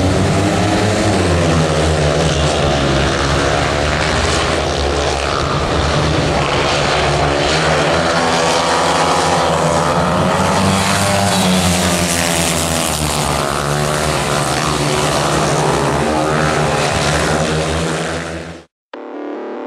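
Several speedway bikes' single-cylinder 500 cc methanol engines racing as a pack, revving up and down through the bends. The sound cuts off suddenly near the end.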